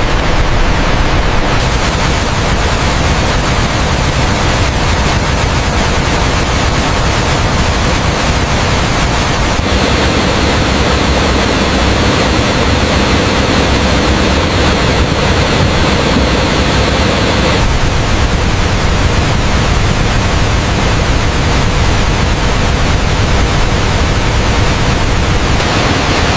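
Loud, steady rushing of a waterfall, an even wash of falling water. Between about 10 and 18 seconds in it turns brighter and harsher in the middle range, then settles back.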